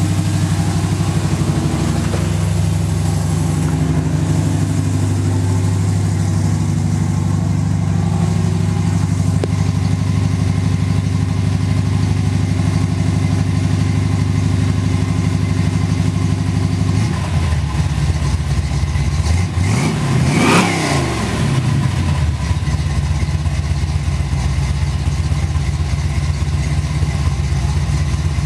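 1971 Chevrolet Nova's engine running at idle shortly after a cold start. The idle note changes about 17 seconds in, and there is one quick rev about 20 seconds in before it settles back to idle.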